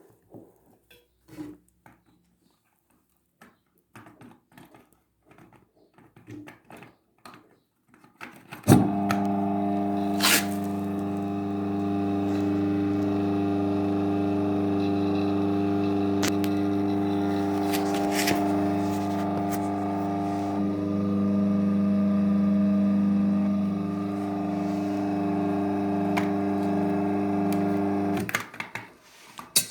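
Single-phase 1.1 kW, 1500 rpm electric motor switched on about nine seconds in, running with a steady hum, then switched off near the end. Before it starts there are a few faint clicks.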